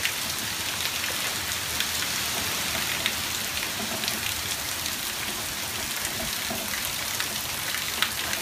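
Heavy rain falling steadily, with scattered sharp ticks of hailstones striking nearby surfaces, the loudest near the end.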